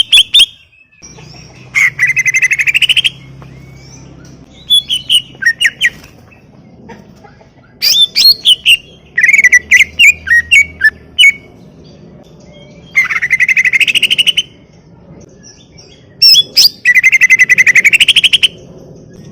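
Green leafbird (cucak ijo) singing loudly in a run of separate phrases: fast trills and quick sweeping whistles, each burst a second or two long, with short pauses between.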